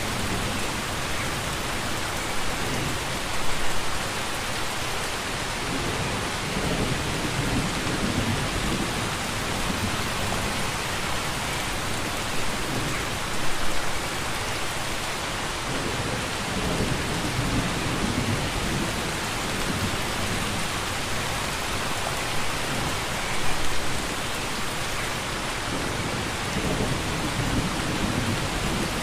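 Steady heavy rain with low rumbles of distant thunder swelling in and out. The rumble rises to a louder peak three times, about ten seconds apart.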